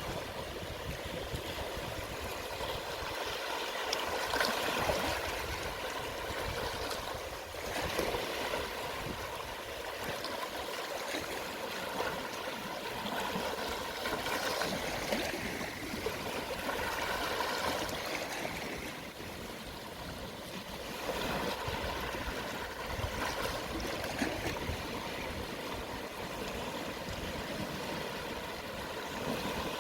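Calm sea waves at low tide washing in and draining back with a gurgling trickle, the wash swelling and easing every few seconds.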